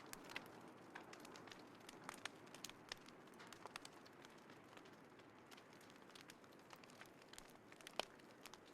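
Small wood fire crackling in a compact folding fire pit: irregular sharp pops over a soft low hiss, with one louder pop near the end.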